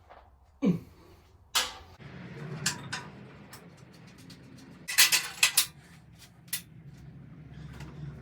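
Metal clanks and knocks from tools and parts while bolts are undone under an old tractor frame, with a loud burst of several clanks about halfway through, over a low steady hum that starts about two seconds in.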